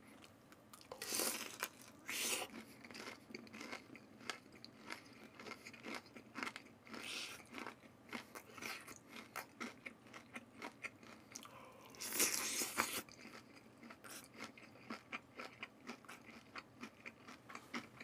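Close-up crunching and chewing of fried chicken in garlic sauce, with louder crunchy bites about a second in and again around twelve seconds in, and quieter chewing clicks in between.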